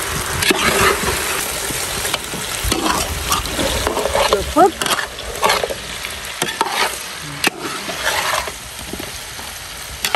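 Chicken wings sizzling as they fry in oil in a large steel wok, with a metal spatula scraping and knocking against the pan as they are stirred, in many short sharp strokes over a continuous hiss.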